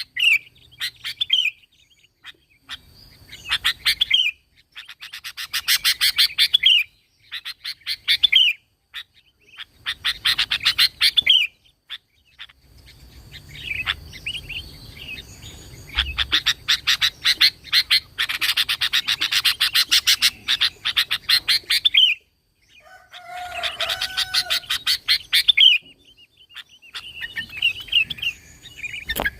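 Sooty-headed bulbul (kutilang) singing: bursts of fast, chattering notes in phrases of one to two seconds, separated by short pauses, with a longer unbroken run of chatter in the middle.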